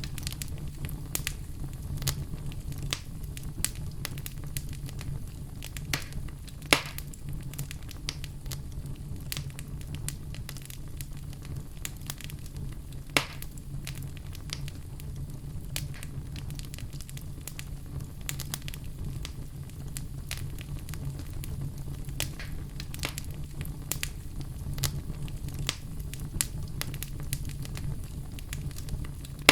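Oak logs burning in a fireplace: a steady low rumble of flame with frequent sharp crackles and snaps, and a couple of louder pops about seven and thirteen seconds in.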